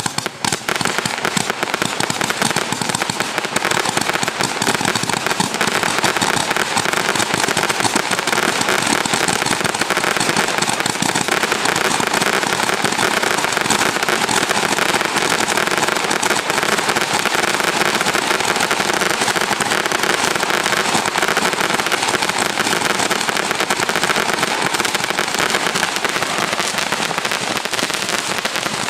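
A 900-shot Gatling Gun roman candle firing nonstop: a dense, rapid stream of pops and cracks with no pause.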